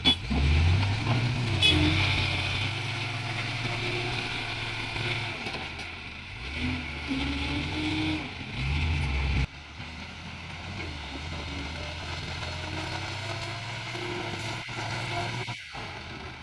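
Diesel engine of a Case 770EX backhoe loader running and revving up and down repeatedly as it works, then dropping abruptly about halfway through to a steadier, quieter run.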